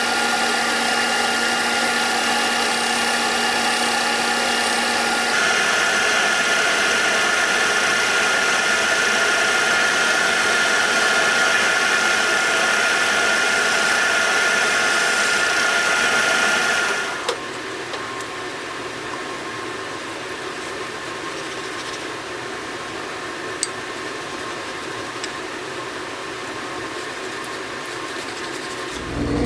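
A motor-driven machine running steadily, with several steady tones over a hiss. Its sound shifts about five seconds in and drops to a quieter steady running around seventeen seconds, with a few light clicks after that.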